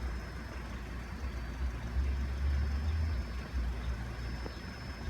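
A road vehicle's engine running with a low rumble that swells about two seconds in, then eases back.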